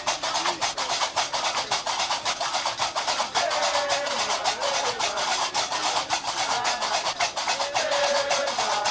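Gnawa music: a fast, steady clatter of qraqeb (iron castanets) driving the rhythm, with a voice singing a melodic line in the middle and near the end.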